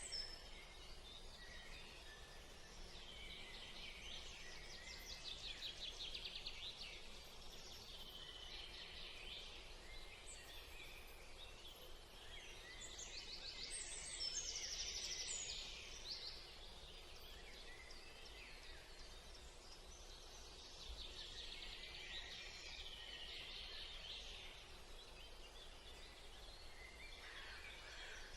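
Several birds chirping and trilling, with high, rapid trills that come and go; the loudest burst of song is about halfway through.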